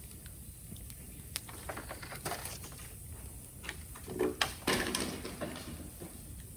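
Green bamboo bonfire crackling, with scattered sharp pops and a cluster of louder snaps about four to five seconds in.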